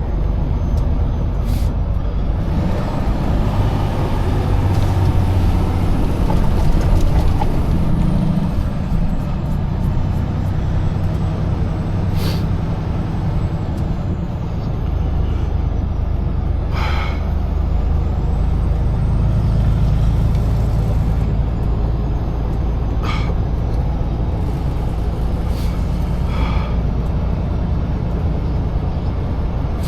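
Semi truck's diesel engine running steadily at road speed, heard from inside the cab as a low drone that shifts in pitch a few times, with a few brief sharp clicks.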